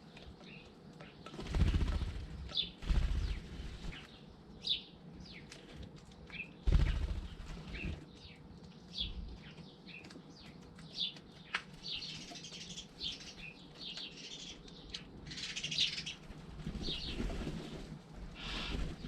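Garden birds at a feeder: wings flapping loudly as birds land and take off, about 2 and 7 seconds in, with short high chirps throughout that thicken into busier chattering in the second half.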